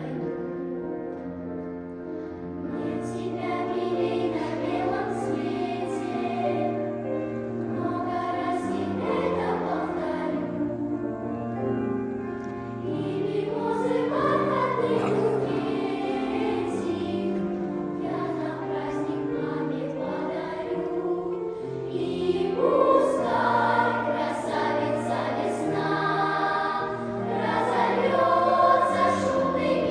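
Children's choir singing a song in several voices over instrumental accompaniment, growing louder about two-thirds of the way through.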